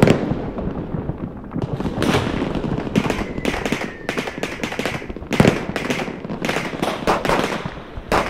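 Fireworks going off: a quick string of sharp bangs and crackles over a steady rumble, with a faint falling whistle about three seconds in. The loudest bangs come at the start and about five and a half seconds in.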